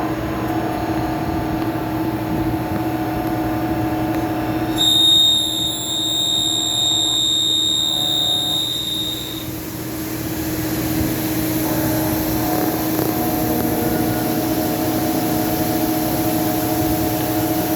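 CNC lathe running with a steady machine hum. A high-pitched whine joins it from about five seconds in and stops a few seconds later.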